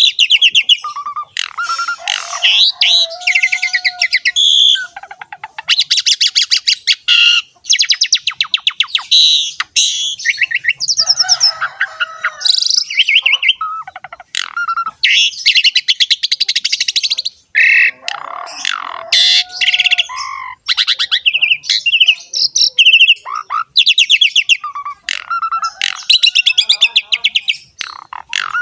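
Pied starling (jalak suren) singing continuously in a rich, varied song: fast rattling trills, harsh chattering notes and short whistles follow one another with only brief breaks.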